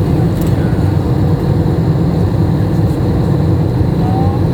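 Steady airliner cabin noise heard from inside the passenger cabin: the jet engines and the rush of air, a dense even drone strongest in the low range.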